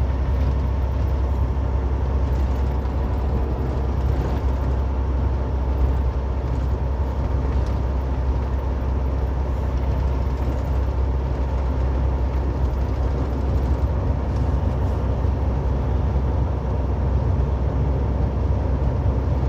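Steady road and tyre noise with a low rumble, heard from inside a car cruising at about 46 mph on the highway.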